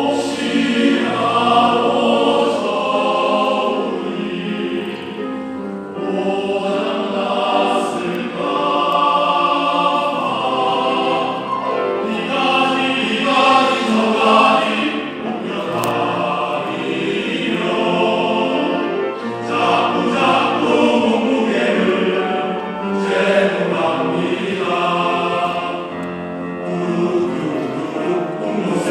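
Men's choir singing a song in several parts, in phrases of held notes with short breaks between them.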